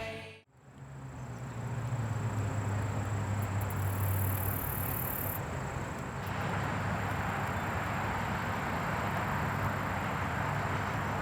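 Music cuts off right at the start, then steady outdoor background noise with a low hum runs on, its texture shifting slightly about six seconds in.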